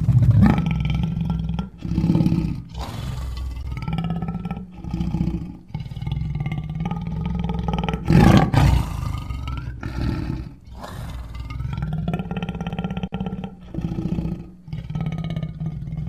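Big-cat growls and roars used as the voice of a Smilodon, a sabre-toothed cat. There are about ten calls in a row, each a second or two long with short breaks between them, and the loudest comes about eight seconds in.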